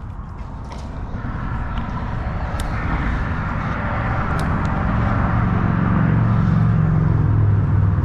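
Traffic crossing the road bridge overhead, the sound growing steadily louder and deeper.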